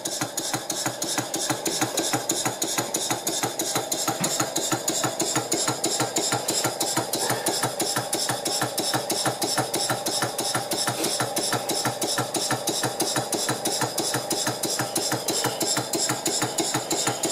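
Stuart Victoria model horizontal mill engine running steadily on compressed air, giving a fast, even beat of short exhaust puffs and clatter from the crank and valve gear.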